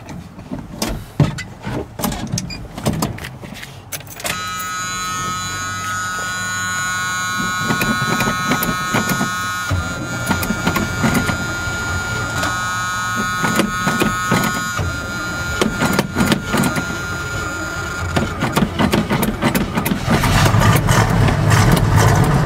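Cold start of an old gasoline engine after sitting several days in chilly weather: a few clicks and knocks as the gas pedal is pumped, then long cranking with a steady whine, and near the end the engine catches and runs louder.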